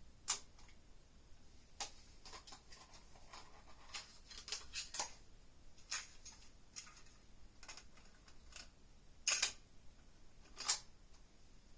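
Quiet, irregular mechanical clicks and clunks of a Yamaha K-1A cassette deck's transport controls being operated, some in quick clusters, with two louder clunks a little past nine and ten and a half seconds in.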